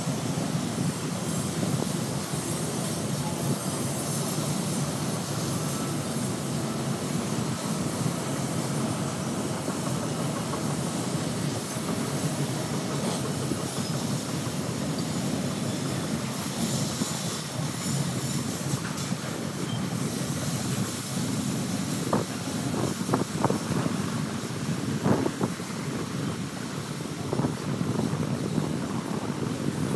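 Freight train of covered hopper cars rolling past, a steady rumble of steel wheels on rail, with a few short wheel squeals and clicks in the second half.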